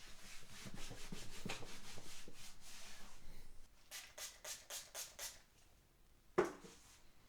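Cotton rag wiping the body of an acoustic guitar with its strings off: a steady rubbing, then a run of quick short strokes. A single sharp knock with a brief ring comes near the end.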